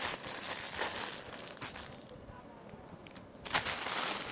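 Plastic courier packet being torn open and crinkled by hand. The crinkling dies down for about a second and a half a little after halfway, then comes back louder near the end.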